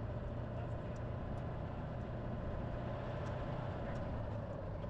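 Citroën car's engine running steadily while driving, a constant drone mixed with road noise.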